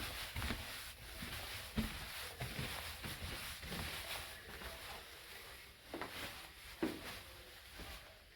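Slow, irregular footsteps and soft thumps of someone climbing up through an old house, with two louder knocks about six and seven seconds in.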